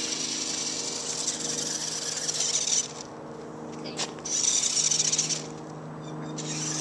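Toy monster truck's electric motor and gears whining as it drives, cutting out twice and starting again as the throttle is let off and reapplied, with a single click between.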